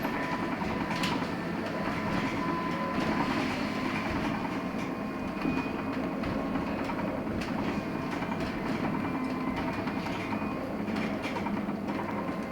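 Inside a LiAZ-6274 electric bus on the move: steady road and running noise with a thin steady whine and scattered light rattles and clicks.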